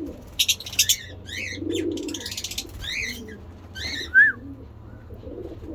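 Pigeons cooing low and softly, while lovebirds give short, sharp, high chirps over them. One louder chirp comes about four seconds in.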